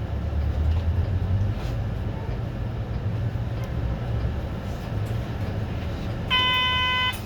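City bus engine idling with a low rumble at a stop. Near the end a single loud electronic beep, one steady tone lasting just under a second, sounds from the bus's door-closing warning buzzer just before it pulls away.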